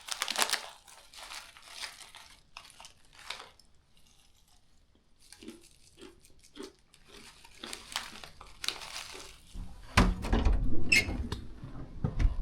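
A plastic snack packet crinkling and squeaking as it is handled. From about ten seconds in, a louder low rumbling with knocks takes over.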